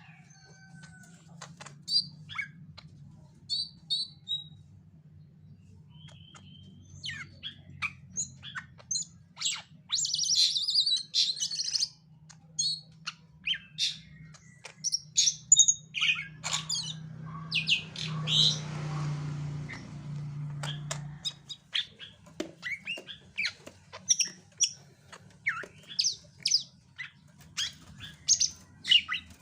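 Greater green leafbird (cucak ijo) giving short, sharp chirps and calls at irregular intervals, over a low steady hum. Just past the middle, a few seconds of rustling noise.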